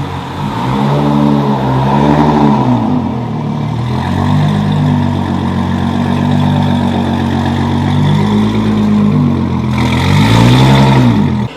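Car engine revving loudly: a few quick rises and falls in pitch, a held steady stretch in the middle, then two more swells before it cuts off.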